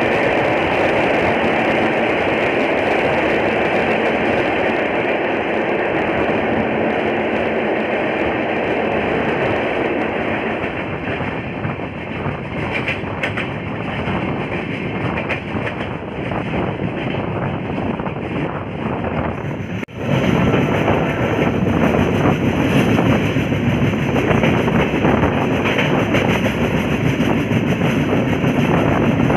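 Running noise of a moving express train heard at an open coach door: wheels on the rails and rushing air. It is louder and fuller at first, inside a tunnel, and then clicks of wheels over rail joints come through in the open. The sound cuts out for an instant about twenty seconds in and resumes steady.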